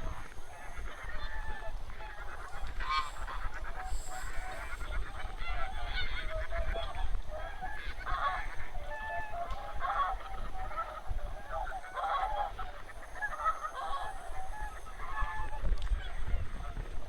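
A large flock of wild geese calling, with many short honks overlapping continuously and no pauses.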